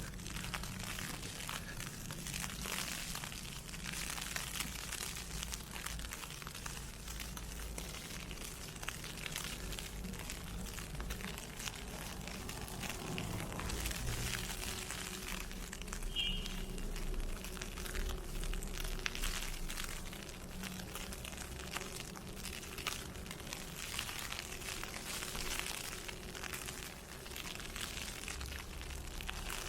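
Wind-blown snow and ice pellets ticking on an umbrella overhead: a dense, crackly patter. Footsteps crunch through fresh snow underneath it.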